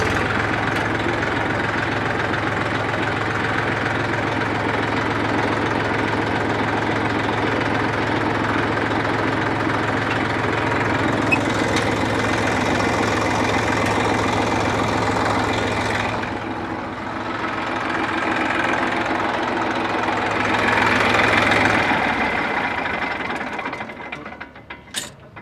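Massey Ferguson 241 tractor's three-cylinder diesel engine idling steadily with a knocking diesel clatter. It swells briefly about 20 seconds in, then stops and dies away a few seconds before the end.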